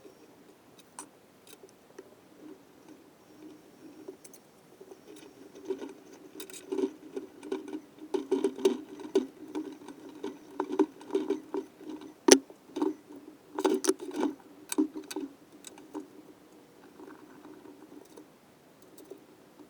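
Metal engine parts and hand tools being handled on a workbench during assembly of the cylinder and cylinder head: irregular clicks and taps, busiest in the middle, with one sharp click about twelve seconds in.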